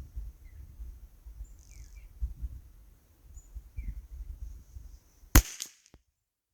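A single sharp rifle shot about five seconds in, a .22 LR rimfire round of SK Pistol Match ammunition. Before it, faint short bird chirps over a low rumble.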